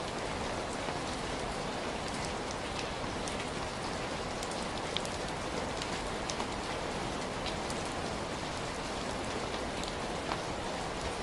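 Heavy rain falling steadily as an even hiss, with the sharp ticks of individual drops striking a surface scattered throughout.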